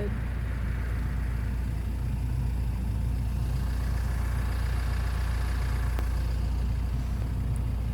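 Car engine idling steadily with a low, even hum while the car stands stopped.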